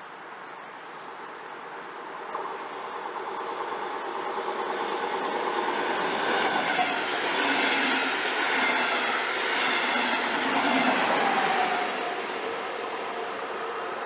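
A train passing on the tracks: its rail noise builds from about two seconds in, is loudest in the middle, and dies away near the end.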